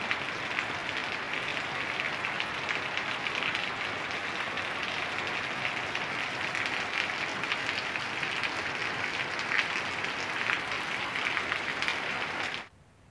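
Steady rain falling, a dense, even hiss of many drops that cuts off abruptly near the end.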